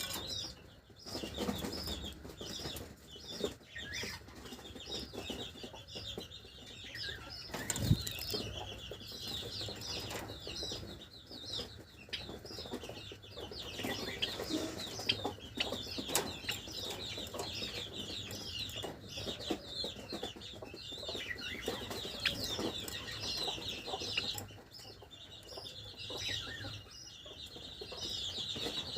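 Several Java sparrows chirping constantly in quick, short, high notes, with scattered fluttering and knocks and one louder thump about eight seconds in.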